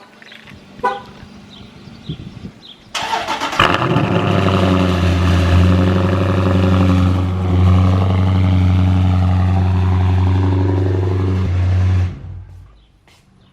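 Cold start of a Dodge Challenger Scat Pack's 6.4-litre HEMI V8: the engine cranks and fires with a sudden loud burst about three seconds in, then runs at a steady, loud cold-start idle before cutting off abruptly near the end.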